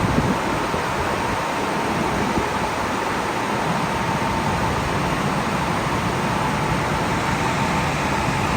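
Automatic car wash machinery running: a steady rushing noise with a thin, steady whine through it.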